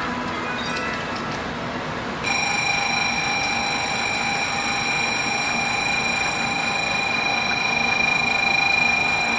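Shinkansen platform departure warning bell ringing as one steady electronic tone, starting about two seconds in and held without a break, signalling that the train's doors are about to close.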